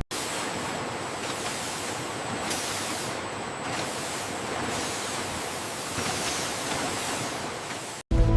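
A steady, even hiss with no rhythm or clear tone, starting and stopping abruptly at cuts.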